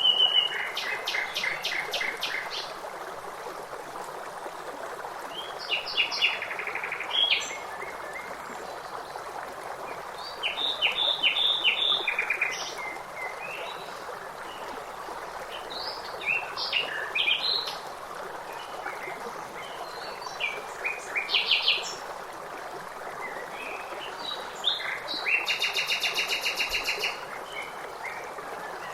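Birdsong over a steady stream: several birds sing short phrases of rapid repeated notes every few seconds, above an even rush of flowing water.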